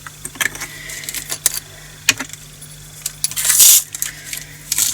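Small resin diamond-painting drills clicking and rattling as they are poured into a plastic storage container, with a denser rush of pouring about three and a half seconds in.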